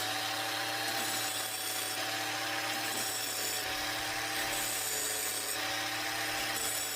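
Battery-powered angle grinder running steadily with a constant whine, its wheel grinding the teeth of a sawmill band blade to sharpen them; a higher grinding hiss comes and goes every second or so.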